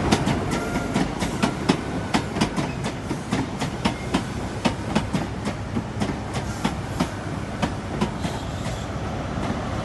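Wheels of an arriving class 43 High Speed Train clicking over rail joints and pointwork, a few sharp clicks a second and irregular, over a steady low rumble.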